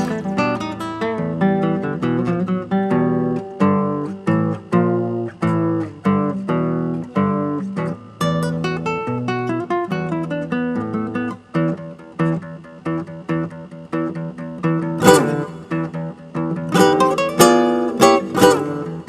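Acoustic guitar music, plucked and strummed, with quick note runs and a few sharp, bright strums near the end.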